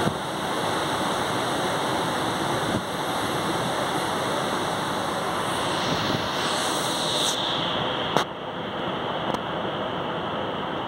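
Steady rushing noise of a moving passenger train with wind. There are a few sharp clicks, a loud one about eight seconds in, after which the sound turns slightly quieter and duller.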